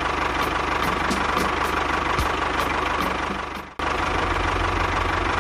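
An engine running steadily at idle. The sound breaks off abruptly for an instant just under four seconds in, then carries on.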